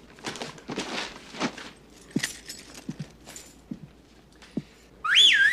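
A string of small clicks and knocks, then near the end a loud swooping whistle that slides up, dips and rises again.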